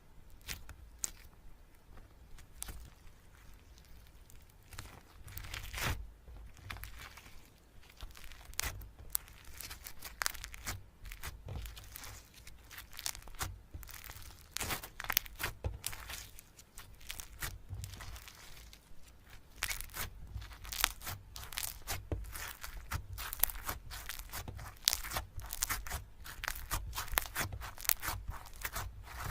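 Slime being squeezed and worked by hand, giving many small sticky crackles and pops. They come sparsely at first and grow thicker and more rapid in the second half.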